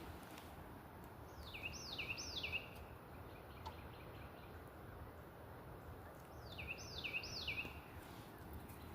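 A songbird singing two phrases, each of three quick high notes that slide downward, about five seconds apart, over a steady low outdoor background noise.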